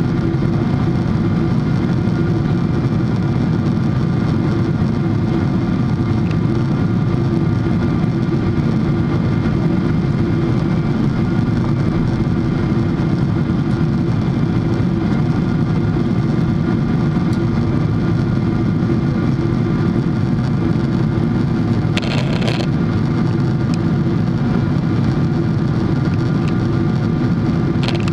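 Steady cabin noise of a Boeing 777-300 in flight: a constant low roar of the jet engines and airflow, unchanging in level. A brief short noise breaks in about two-thirds of the way through.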